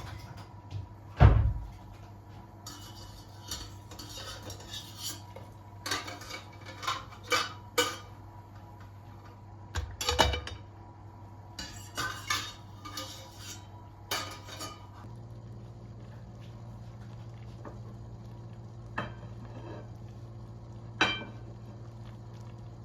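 Kitchenware being handled: dishes and cutlery clinking and knocking in an irregular run of hits, with a heavier thump about a second in and another around ten seconds. The hits thin out in the last third to two lone clinks, over a steady low hum.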